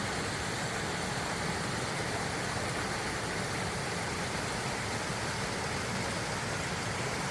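Running water from a stream and small waterfall, a steady even rush with no breaks.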